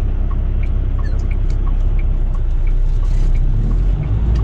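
Semi-truck engine running, heard from inside the cab, with the turn-signal relay clicking steadily at about three clicks a second, alternating higher and lower clicks. A brief hiss comes about three seconds in.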